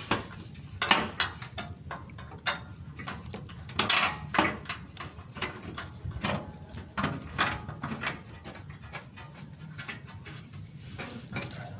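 Ratchet wrench clicking in short irregular runs, with metal tool clinks, as bolts are tightened.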